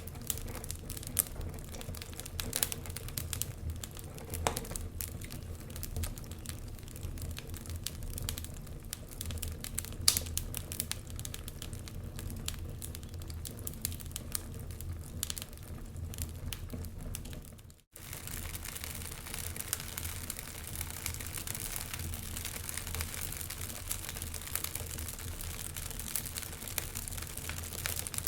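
Wood fire crackling in a fireplace: irregular sharp pops and snaps over a steady low rumble. The sound cuts out for an instant about two-thirds of the way through, then resumes.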